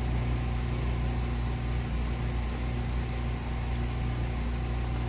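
An engine running steadily at a constant speed, giving an even low hum.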